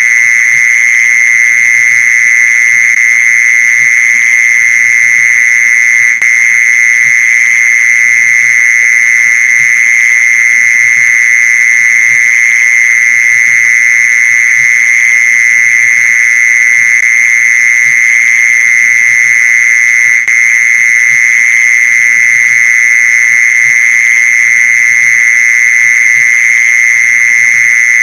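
Mole cricket song: one continuous, loud, high trill that holds a steady pitch, cut by two momentary dropouts about six seconds and about twenty seconds in.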